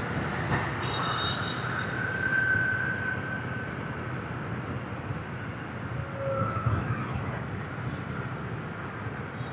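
Motorbike traffic heard from a moving motorbike: a steady wash of engine and road noise, with a thin high tone drawn out for a second or so about two seconds in.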